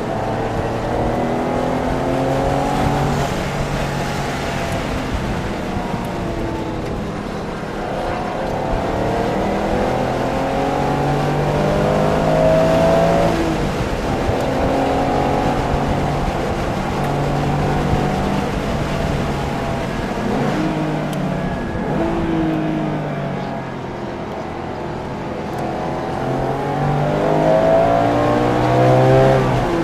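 Porsche engine on track, revving up through the gears and dropping back under braking several times, with a long climb in revs near the end.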